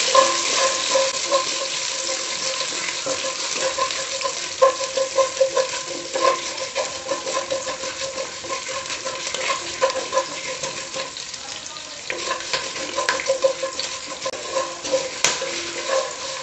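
Ginger, garlic, green chillies, curry leaves and dried red chillies sizzling in hot coconut oil in a nonstick kadai, with a spatula scraping and tapping against the pan in frequent quick strokes as they are stirred. The aromatics are being sautéed until browned.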